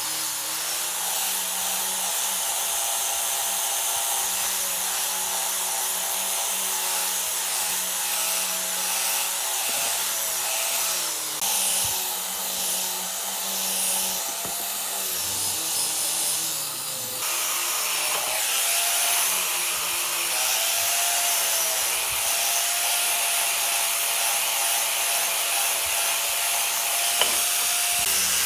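Electric power tool running continuously while cutting or abrading wood, its motor pitch dipping and recovering as the load changes. A single short click comes near the end.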